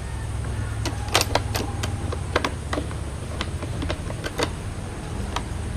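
Sharp, irregular clicks and taps of small coffee-machine parts being handled and fitted, over a steady low hum.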